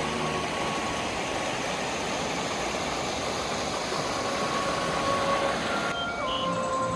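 Rushing water, a steady full hiss with faint background music underneath; about six seconds in the hiss cuts off and the music comes forward.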